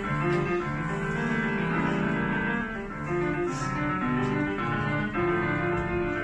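Live classical instrumental music with piano, a continuous passage of sustained notes and shifting chords.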